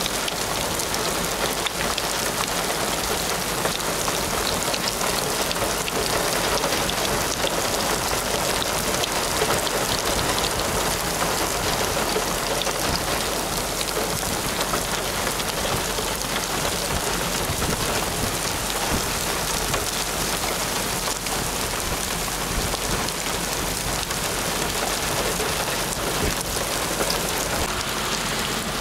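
Steady rain falling on dry ground and puddles: an even hiss with a fine patter of drops.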